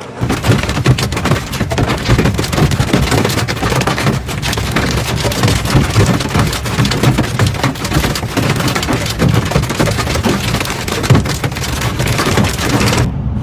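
Heavy hail and rain pelting down, a loud dense clatter of countless small impacts on hard surfaces. It stops abruptly near the end.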